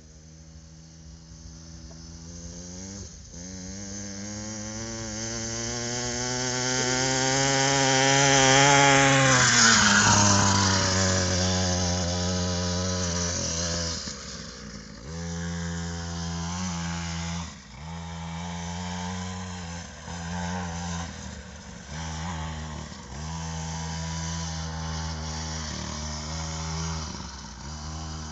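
Mini dirt bike's small engine running at high revs, growing louder as the bike approaches and passing about ten seconds in with a drop in pitch. After that the engine revs up and down again and again, with short dips in throttle.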